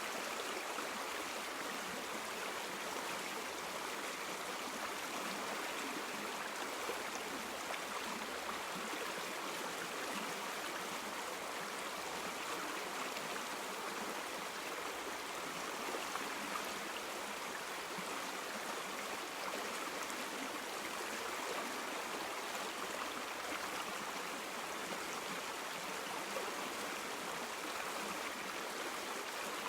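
River water flowing in a steady rushing babble, with no breaks or changes.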